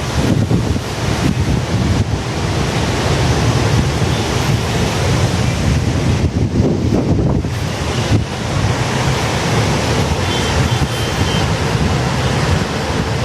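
Wind buffeting the microphone over a steady rushing hiss of sea surf.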